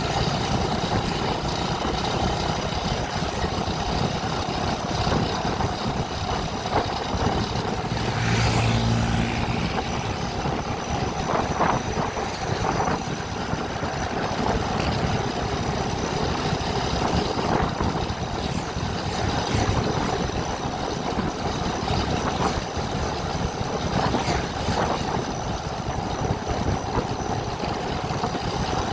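A vehicle engine and road noise running steadily while driving. About eight seconds in, a brief low steady tone sounds over it for about a second.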